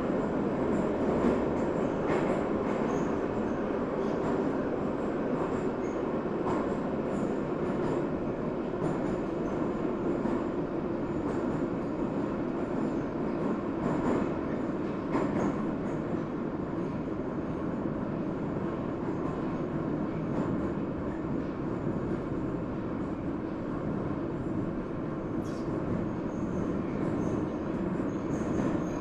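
Subway train running at speed, heard from inside the car: a steady rumble of wheels on rail with a few scattered clacks.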